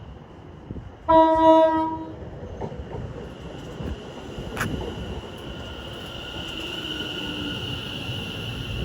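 Greater Anglia Class 720 electric multiple unit arriving, giving one horn note about a second in that lasts about a second. A high steady whine then grows gradually louder as the train runs in.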